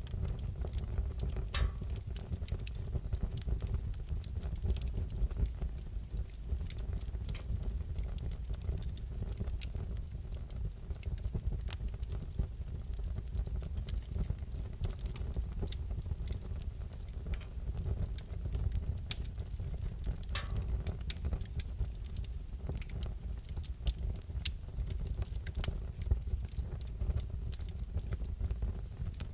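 Wood fire crackling in a fireplace: a steady low rumble with scattered sharp pops and crackles.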